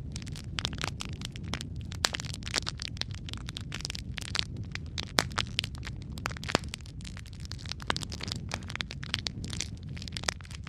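Wood logs burning in a fireplace: a dense, irregular crackle of sharp pops and snaps over a steady low rumble of flame, with a few louder pops.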